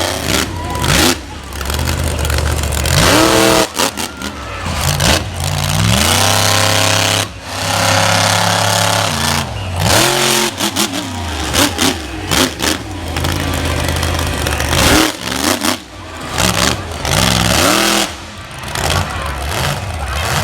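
Monster truck engine revving hard, its pitch climbing and falling over and over as the throttle is worked.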